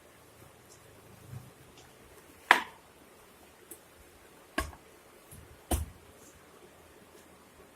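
Three sharp knocks, the first and loudest about two and a half seconds in, then two more about two and three seconds later, while besan dough is worked and smoothed by hand.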